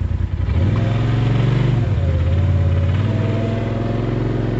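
Side-by-side UTV engine pulling under throttle: its pitch climbs about half a second in, dips briefly near two seconds and recovers, then holds with a slow rise.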